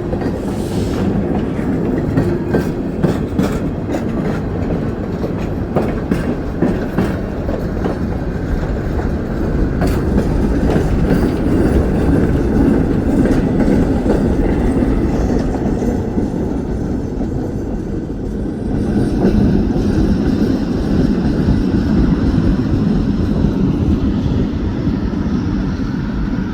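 Keewatin Railway train rolling past, its wheels clicking over the rail joints over a steady low rumble. The clicks are thickest in the first half, and the rumble grows louder a little past the middle.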